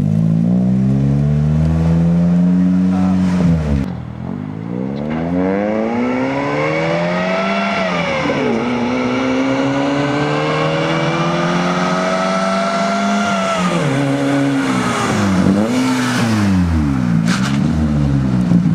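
1985 Toyota Corolla's 1.6-litre four-cylinder engine being driven hard, its pitch climbing under acceleration and dropping sharply at gear changes about 4, 8 and 14 seconds in. Near the end the revs rise and fall quickly several times.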